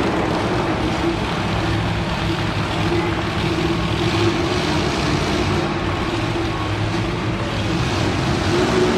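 Monster truck engine running steadily at a fairly constant speed, a loud deep drone that barely changes in pitch.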